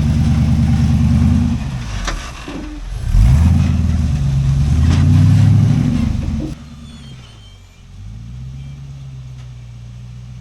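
Off-road rock-crawling rig's engine revving hard under load, its pitch dipping and climbing again a couple of seconds in. More than halfway through the loud engine cuts off suddenly, and a quieter engine holds steady revs.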